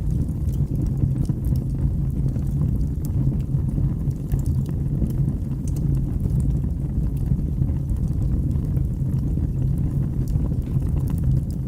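Wood fire burning in a fireplace: a steady low rumble of flames with small crackles and pops scattered throughout.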